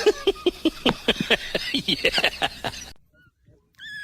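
Rapid, repeated animal calls mixed with voices, cutting off suddenly about three seconds in. Near the end a cat's high meow begins.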